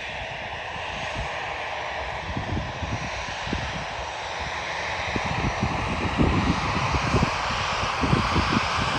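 Jet airliner engines, an Airbus A320-family aircraft, running as a steady rushing roar that slowly grows louder, with wind buffeting the microphone in low gusts.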